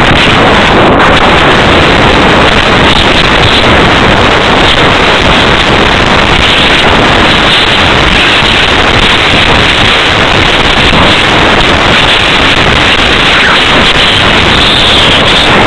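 Loud, steady rush of wind buffeting the microphone of a small camera riding on a flying slope-soaring glider; the glider has no motor, so this is all airflow noise.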